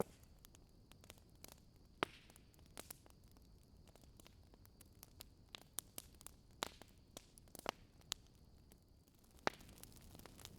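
Fireplace fire crackling softly, with irregular sharp pops over a low steady hiss.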